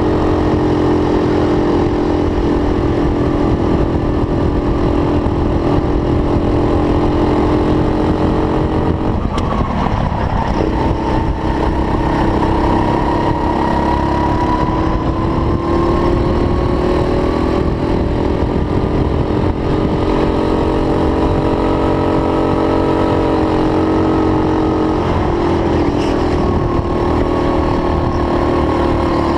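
Racing go-kart engine running hard, its note rising and falling gently with speed through the corners, over a steady low rumble. The note breaks up briefly about nine seconds in.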